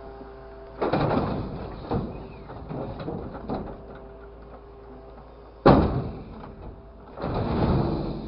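Bursts of sliding, scraping noise with smaller knocks between them and one sharp bang a little under six seconds in, over a steady low hum.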